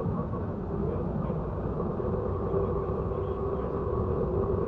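Train on the Simpson Railroad running, a steady rumble with a constant droning hum over it.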